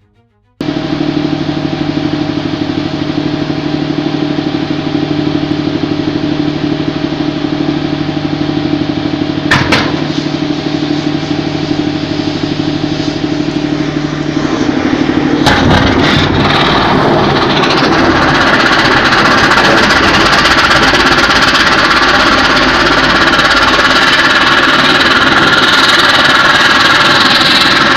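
An engine running with a steady pitched hum, with a sharp click about ten seconds in; about halfway through it gives way to a louder, noisier rushing sound that holds until it cuts off abruptly.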